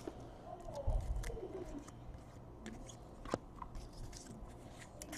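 Quiet handling of trading cards on a table: faint taps and rustles, a low bump about a second in and a sharp click about a third of the way through, with faint wavering tones in the background.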